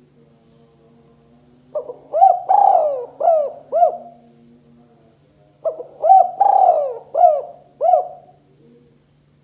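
Spotted dove cooing: two phrases of about five coos each, a second or two apart, over a faint steady hum.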